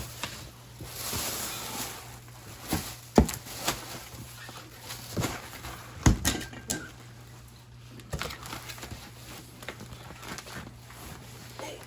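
Handling noise from a package being unboxed: a rustle about a second in, then scattered knocks and bumps, the loudest about three seconds in and another about six seconds in, over a steady low hum.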